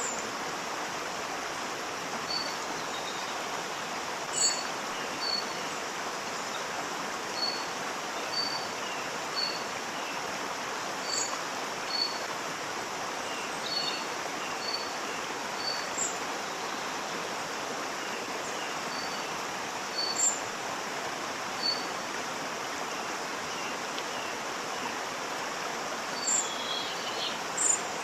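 Steady rushing of a waterfall, with a bird chirping now and then: short high notes every second or two, and a few sharper, higher calls.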